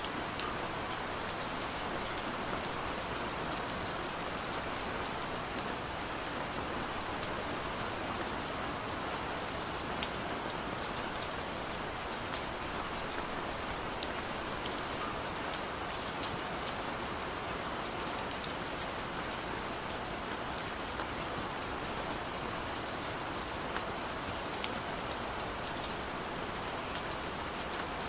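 Steady gentle rain, an even hiss of falling rain with scattered small drop ticks.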